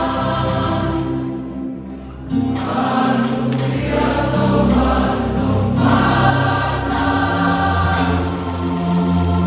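A choir singing a hymn in harmony with sustained held notes, a brief lull about two seconds in.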